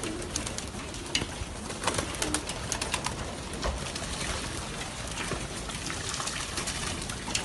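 Racing pigeons in a large loft flock cooing, with many scattered sharp clicks and taps over a steady rustling hiss.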